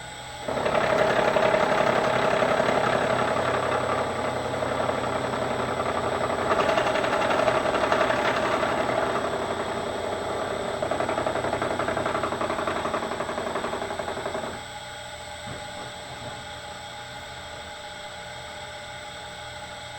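Bridgeport milling machine taking a light finishing pass in metal: the cutter's grinding, chattering cut starts about half a second in and stops about two-thirds of the way through. The spindle motor keeps running with a steady hum after the cut.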